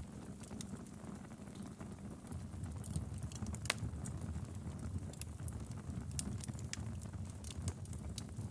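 Wood fire burning in a fireplace: a steady low rumble of flames with frequent irregular sharp crackles and pops, one louder pop a little over halfway through.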